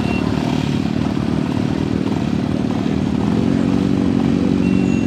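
A vehicle engine running close by at a steady, low idle with a fast pulsing beat. A thin high whistle-like tone comes in briefly near the end.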